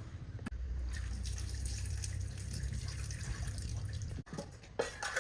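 Water running and dripping with a steady low rumble, cut off suddenly about four seconds in, then a few sharp clicks.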